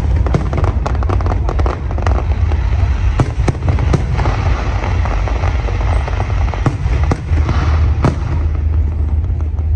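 Fireworks display in full flow: many sharp bangs and crackling shell bursts in quick succession, over a heavy continuous low rumble.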